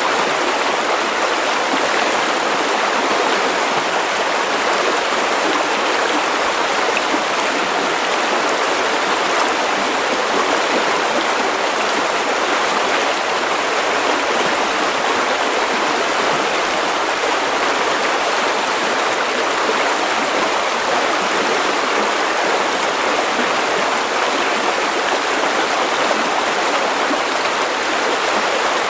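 River water running over stones, a steady, even rushing and babbling.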